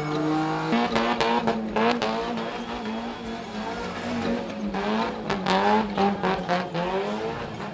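Car engine held at high revs while spinning, its note wavering up and down after a sudden drop in pitch just under a second in, with tyre squeal and a few sharp cracks.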